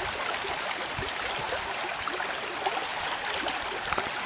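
Small creek running steadily over its bed, a constant rushing of water with a few small splashes.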